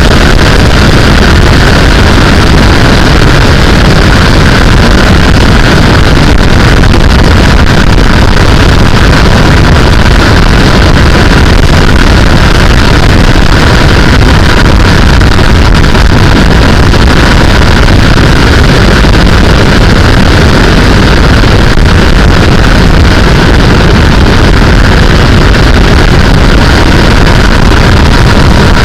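Loud, constant wind rush on the microphone of a sportbike at road speed, with the engine running at a steady pitch underneath and no changes in revs.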